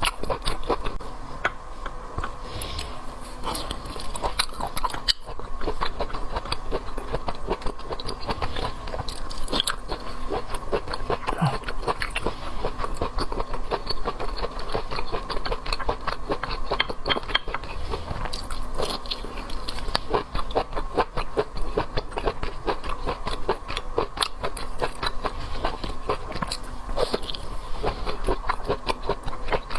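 Close-miked chewing and biting of seafood: a steady stream of small wet clicks and smacks, over a faint steady hum.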